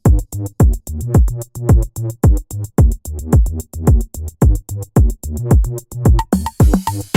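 Electronic background music with a drum-machine beat: deep kick drums that drop in pitch, about two a second, under fast hi-hat ticks. Near the end a brighter layer with a short repeating higher note comes in.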